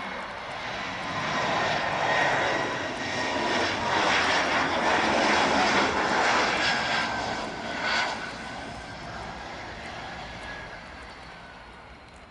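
Embraer 175 jet airliner's twin turbofan engines passing on the landing approach: a rushing roar with a high whine that swells to a peak about midway, then fades as the whine drops in pitch.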